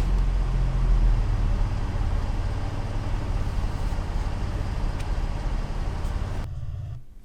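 V6-swapped Toyota MR2 (SW20) engine and exhaust running with a steady low rumble, its exhaust leak sealed, slowly getting quieter and cutting off near the end.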